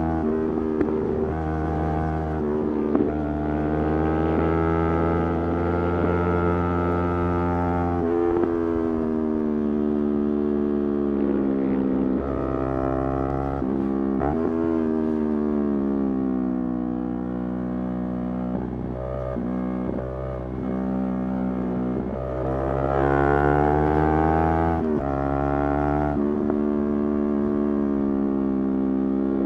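Motorcycle engine running on the road, its pitch rising and falling with the throttle and breaking sharply several times at gear changes.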